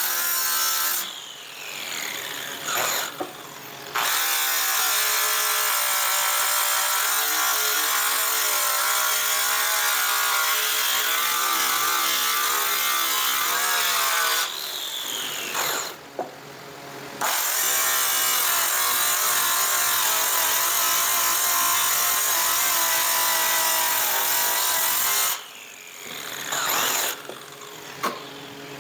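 Electric polishing buffer running with its buff against a stainless or Inconel aircraft exhaust pipe, its pitch wavering under the load of the work. Three times it is let go and winds down with a falling whine, then comes back up to full speed.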